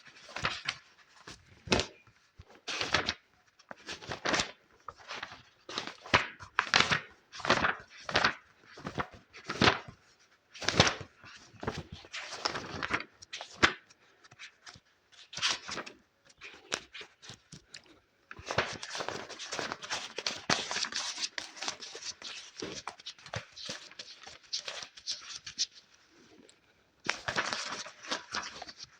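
Close-miked ASMR trigger sounds of hands working on an object: a run of separate swishing strokes about every half second to a second, then from about two-thirds of the way through a stretch of continuous scratchy rustling.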